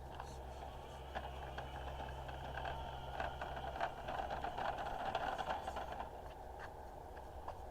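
RC model tractor's small motor and gears whining as it drives, growing louder in the middle, with scattered clicks and rattles.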